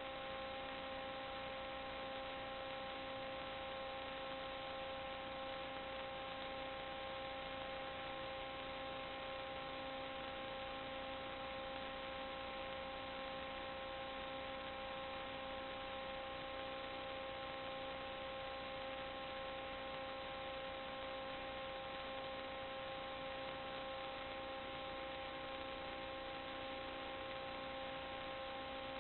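Steady electrical hum with a few fixed high tones over an even hiss, unchanging and with no other events.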